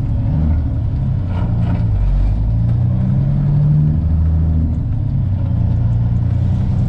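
Peterbilt 379 semi truck's diesel engine heard from the cab, pulling away and accelerating: the engine's pitch climbs, dips about four and a half seconds in, then climbs again.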